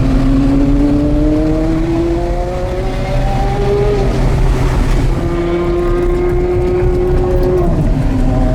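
Porsche Carrera GT's V10 through an FVD exhaust, revs climbing steadily under acceleration for about four seconds. After a short break the engine holds a steady higher pitch, then the revs drop sharply near the end.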